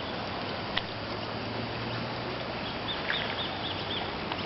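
A run of short, high, arched chirps, about five or six in quick succession, about three seconds in, over a steady background hiss; a single click sounds near the start.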